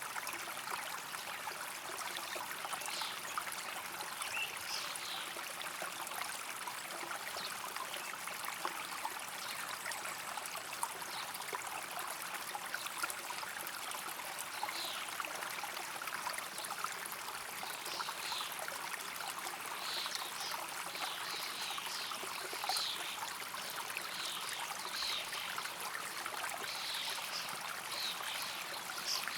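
A stream running and trickling steadily, with short high chirps scattered through it.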